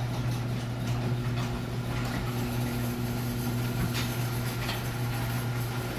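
Garage door opener motor running steadily as the door travels open, a constant low hum with a few faint clicks from the mechanism.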